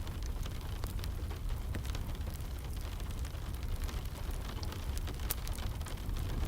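Wood fire crackling, with irregular sharp pops (a louder one about five seconds in) over a steady low rumble, mixed with the even patter of rain.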